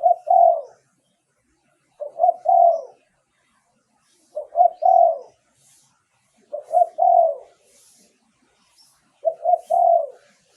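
Spotted dove cooing: five repeated phrases about two seconds apart, each a short note followed by a longer, lower-falling coo, as used for decoy calling.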